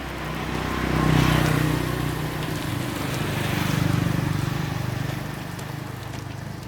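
A motor running with a steady low hum and a hiss over it, growing louder about a second in and again around four seconds.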